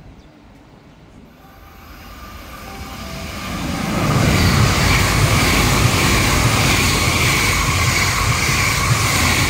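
JR West 683 series Thunderbird limited express electric train running through a station at speed without stopping. The rumble builds over about two seconds as it approaches, then holds loud and steady as the cars pass, a low rumble of wheels on rail with a steady high tone over it.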